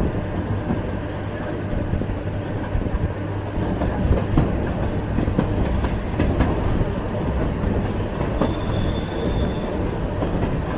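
A suburban electric train (elektrichka) running, heard from inside the carriage: a steady low rumble of wheels on rails with scattered clicks. A faint high whine comes in briefly about eight seconds in.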